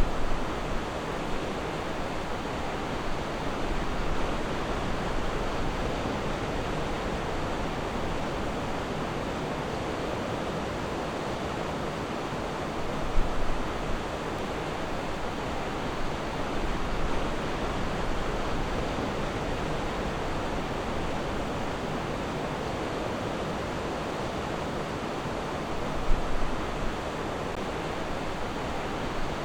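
Ocean waves washing onto a beach: a steady rush of surf, with a couple of brief louder surges.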